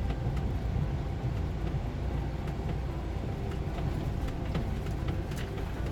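Steady low rumble of a semi-truck's engine and tyres heard inside the cab at highway speed, with a few faint clicks.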